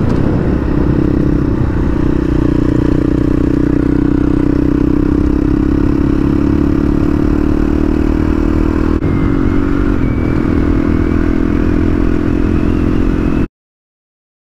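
Honda CRF450-series dual-sport motorcycle's single-cylinder engine running steadily at cruising speed on a graded dirt road, with a loose rattle of gravel under the tyres. The sound cuts off abruptly near the end.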